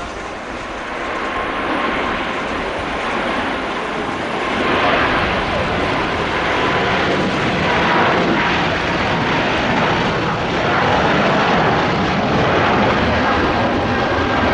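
Jet airliner's engines roaring, growing steadily louder as the aircraft moves along the runway, with a faint steady whine above the roar.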